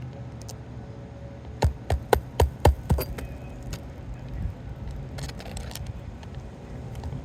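Hammer driving a roofing nail into an asphalt shingle: a quick run of about five strikes about one and a half to three seconds in, then a few lighter taps. A faint steady hum runs underneath.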